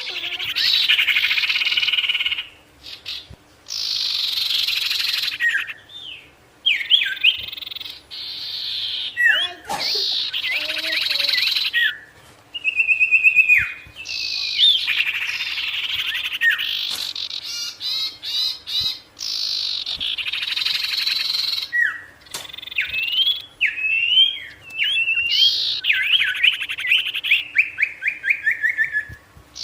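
A sirtu songbird in full song: long, varied phrases of fast trills, rattles and sharp rising and falling whistled notes, broken by short pauses.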